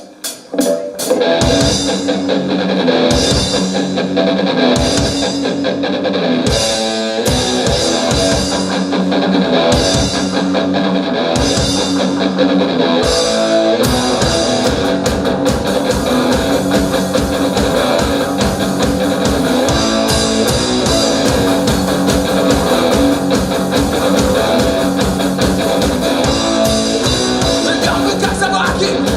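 Rock band playing the instrumental intro of a song, with guitar, bass and drum kit; the full band comes in about a second in and plays on steadily.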